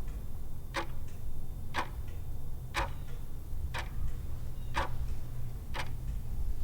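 Clock-tick sound effect, one tick a second, timing the pause for answering a quiz question, over a low steady hum.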